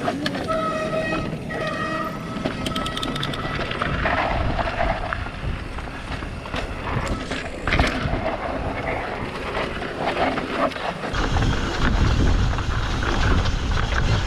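Mountain bike riding over a rocky trail, with tyre noise and short rattles and knocks from the bike. A brief high-pitched whir comes near the start, and wind buffeting the microphone rises near the end.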